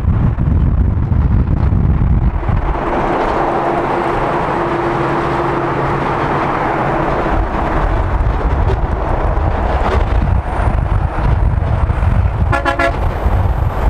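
Road noise and wind buffeting from a car moving at highway speed, swelling into a steady rush in the middle, then a short vehicle horn toot near the end.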